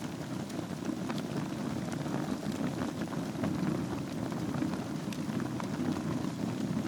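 Wood fire burning in a fireplace: a steady low rumble of flames with scattered sharp crackles and pops from the burning wood and embers.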